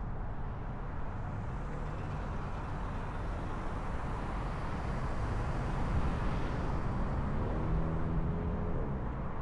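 Steady road and tyre noise of a car driving on a highway, swelling briefly about halfway through. Near the end a pitched engine hum joins in, as from another vehicle passing.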